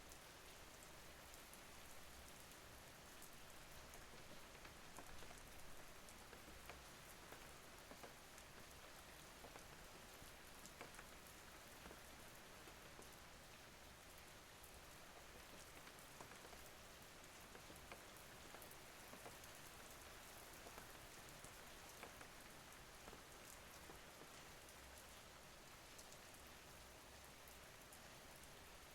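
Steady, soft rainfall with many small drops pattering on a surface.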